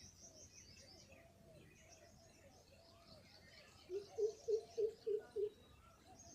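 Small birds chirping and twittering continuously in high, quick notes. About four seconds in, a quick run of six short, loud, low-pitched calls from another animal stands out above them.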